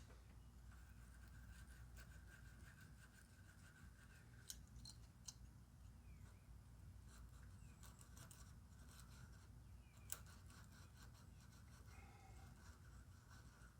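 Very faint clicks and light scraping of hand tools on the valve rocker adjusting nuts during a small engine's valve adjustment, over a low steady hum.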